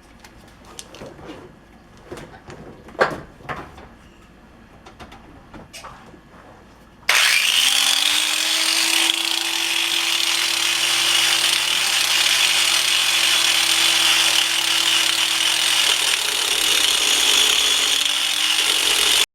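A few light handling knocks, then about seven seconds in a handheld power grinder starts up, its motor whine rising and settling into a steady high hiss as it grinds an opening out of a steel sleeve. The pitch sags briefly near the end as the wheel is pressed into the work.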